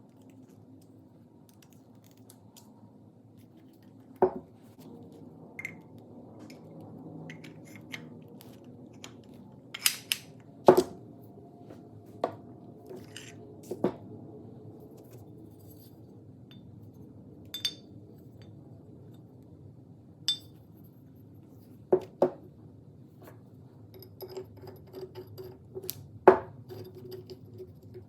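Metal parts clinking and knocking against each other, about a dozen sharp strikes at irregular intervals, some ringing briefly. The loudest strikes come about a third of the way in and near the end.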